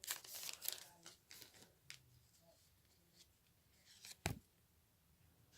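Pokémon booster pack foil wrapper and cards rustling as the cards are handled and slid out, dying down after about a second and a half, with one sharp tap about four seconds in.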